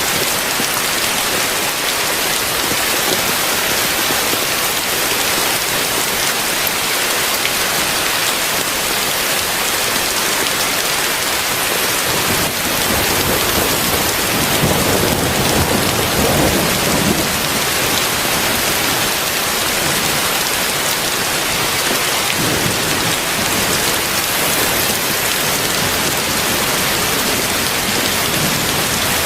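Heavy rain falling steadily, with a low rumble of thunder that swells and fades over a few seconds about halfway through.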